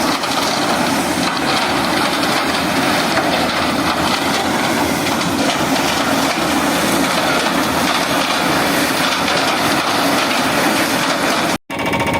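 Heavy earthmoving machine running under load with a steady, dense clatter, cut off abruptly near the end.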